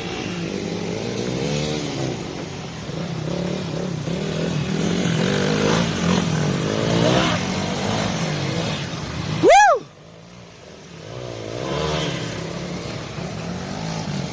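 Several dirt-bike engines racing together on a motocross track, their pitches rising and falling as the riders throttle and brake through the course, fading briefly after the middle and then coming back. A short loud cry cuts through about ten seconds in.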